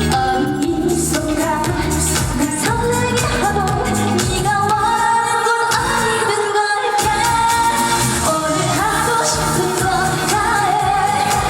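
A female trot singer singing live over a pop-style backing track with a steady beat.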